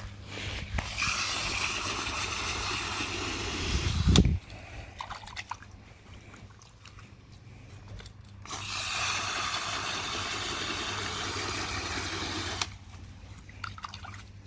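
Water running steadily, in two pours of about three and four seconds with a pause between.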